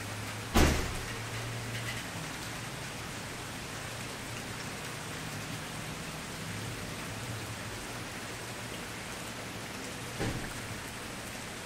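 Wood fire burning with a steady crackling hiss, one sharp loud pop about half a second in and a softer pop near the end.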